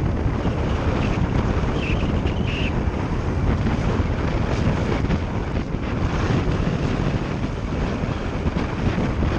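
Steady wind rush on the microphone of a moving motorbike, with the bike's engine running beneath it.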